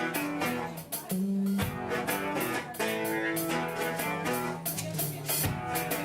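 Live band music: guitar playing with a drum kit keeping time, cymbal strokes ticking steadily through sustained notes.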